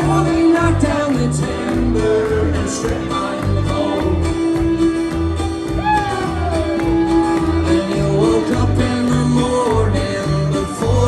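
Live acoustic country band playing, with guitar over a bass line that steps between low notes in a steady rhythm and a melody that slides between notes.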